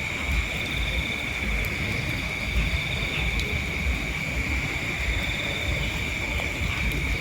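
A steady chorus of night insects chirring in a high, unbroken drone, with a finer pulsing trill above it. Low, uneven rumble of wind on the microphone runs underneath.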